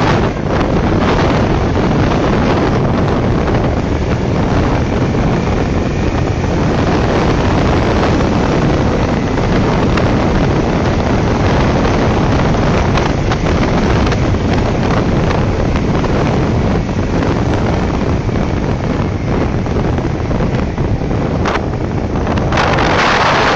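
Wind buffeting the microphone over the running engine and road noise of a BMW motorcycle with sidecar on the move, loud and steady throughout.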